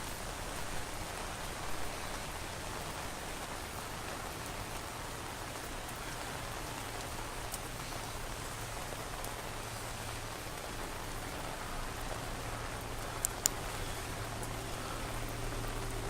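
Steady rain falling, with a low steady hum underneath and two sharp ticks about thirteen seconds in.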